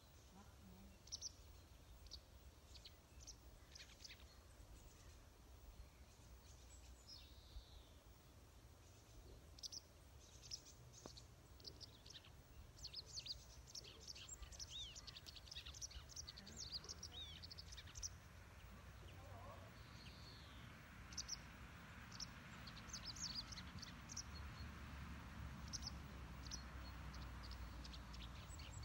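Songbirds chirping and trilling on and off in many short, high calls over a faint low rumble, with a soft hiss growing in the second half.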